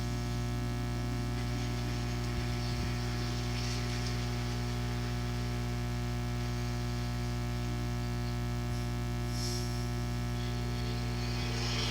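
Steady electrical mains hum with a buzzy stack of many evenly spaced overtones, holding one pitch and level.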